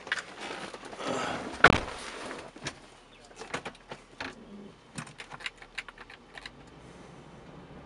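Handling noises in a pickup truck being readied to drive: a sharp knock about a second and a half in, then a scatter of light, quick clicks and taps.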